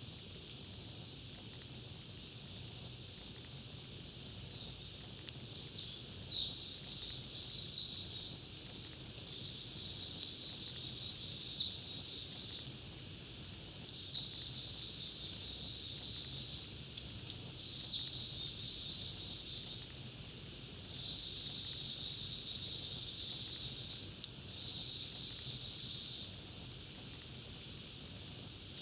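A songbird singing the same short phrase again and again, starting a few seconds in: a sharp down-slurred note followed by a fast trill, every two to four seconds. Under it a campfire crackles softly, with the odd sharp pop.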